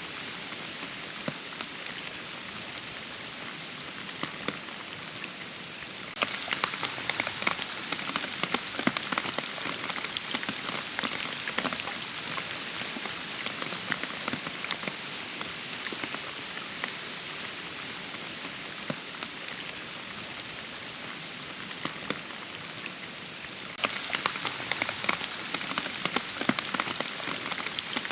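Steady rain falling, with many separate drops striking a surface. It turns suddenly louder and denser about six seconds in, eases off gradually, then turns suddenly heavier again near the end.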